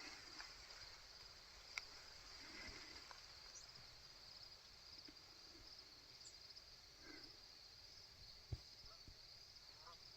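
Faint steady insect chorus, crickets trilling in a high, finely pulsing band, with two small sharp clicks, one about two seconds in and one after about eight seconds.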